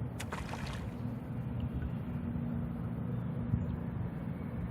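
Steady low rumble of wind and water around a kayak on open water. A brief splashy hiss comes in the first second, which may be the thrown flip-flop landing.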